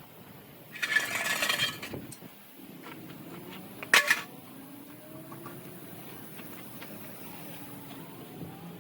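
Metal clinking and rattling for about a second, then a single sharp metallic clank, over a low steady hum.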